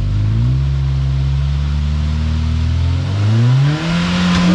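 Off-road vehicle's engine under load, revving up about half a second in, holding, then revving higher again near three seconds as it climbs a trail obstacle.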